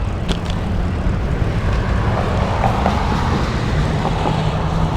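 Wind buffeting the camera's microphone on a moving road bike ridden into a headwind: a steady, loud rush, with a faint low hum underneath.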